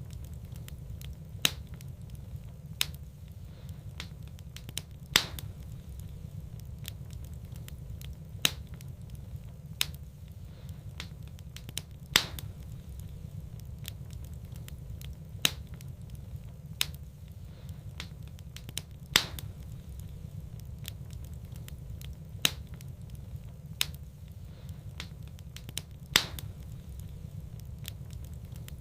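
Wood fire in a fireplace crackling: sharp single pops every second or two over a steady low rumble.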